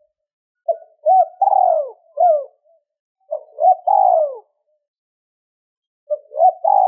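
Spotted dove cooing in three short phrases of several coos each, with pauses of about a second between them. This is the lure call used to draw in wild doves.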